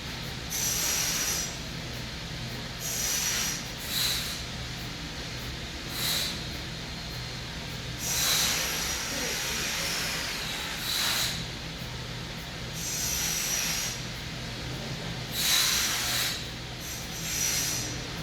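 A person breathing hard through the nose during pranayama breathing exercises: about nine forceful, hissing breaths at irregular intervals, some long and some short puffs, over a steady low hum.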